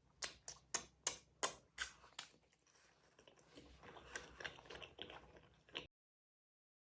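Gummy candy being bitten and chewed close to the microphone: about seven sharp clicks in the first two seconds, then quieter, denser crackling. The sound cuts off abruptly about a second before the end.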